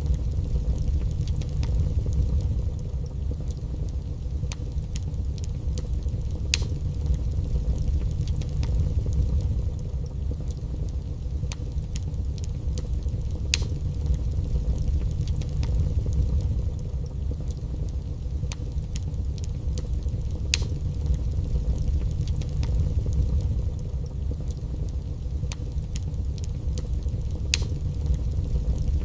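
Wood fire burning in a fireplace: a steady low rumble of flames with sparse sharp crackles and pops every few seconds.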